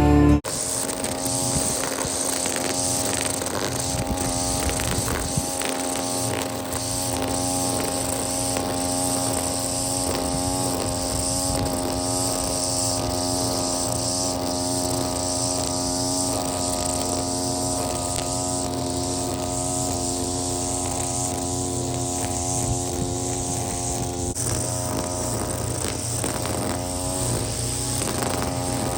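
Small gas engine of lawn equipment running steadily at a constant speed, with a slight wavering in pitch.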